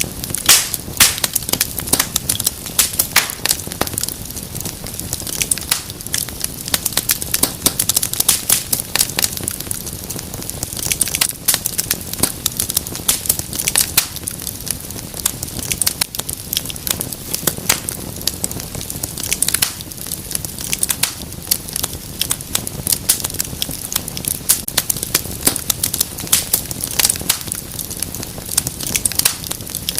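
Wood fire in a fireplace crackling, with dense irregular sharp pops and snaps over a steady low rush of burning.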